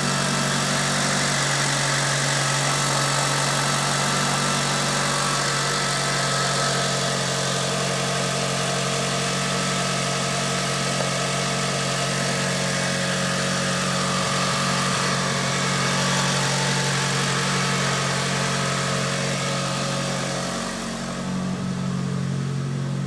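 Evo 1 engine idling steadily on a cold morning, its exhaust note even and unchanging, with a brief slight dip in level near the end.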